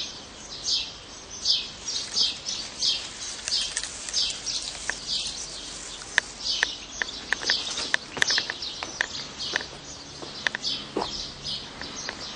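Small bird chirping over and over in short high notes, about one or two a second, with a run of sharp ticks from about halfway through.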